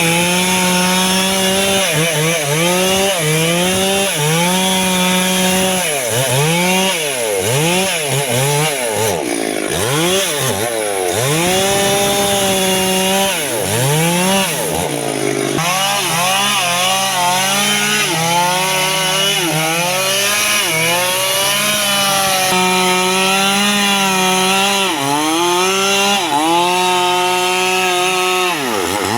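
Two-stroke chainsaw cutting wood at high revs, its engine pitch dipping under load and climbing back again and again.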